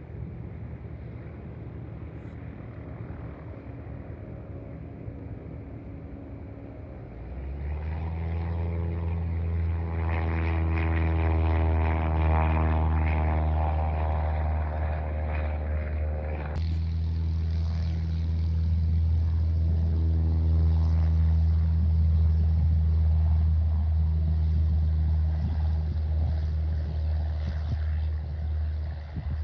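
Propeller airplane flying past close by. Its low, steady propeller drone swells in about seven seconds in, and its tone changes abruptly about ten seconds later.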